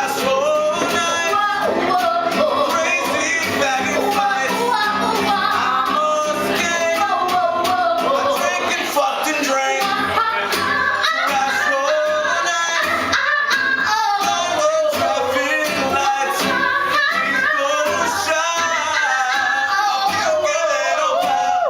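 Singing over musical accompaniment, a melody with held low notes underneath.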